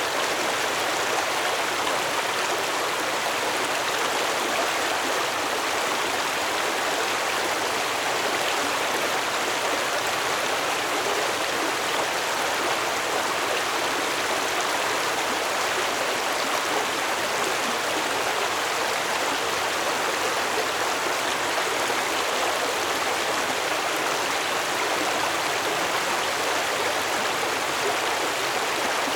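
Water of a stream flowing steadily over rocks, a constant rushing with fine gurgling and no pauses.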